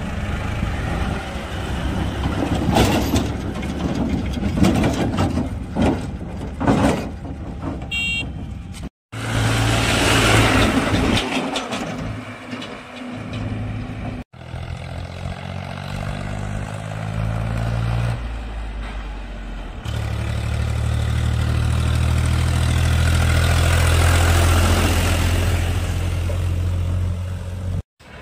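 Diesel tractor engines running, heard in several short cut-together shots, with a steady low engine hum through the last several seconds.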